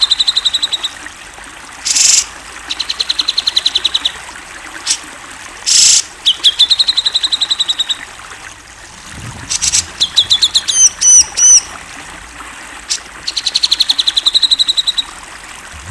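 Cucak jenggot (grey-cheeked bulbul) singing loudly in repeated phrases: short harsh bursts, then rapid trills of many quick notes lasting about a second and a half each. About eleven seconds in comes a run of hooked, whistled notes.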